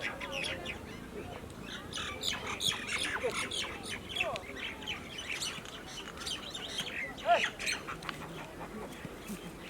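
Birds chirping and squawking in many short, quick calls that overlap one another.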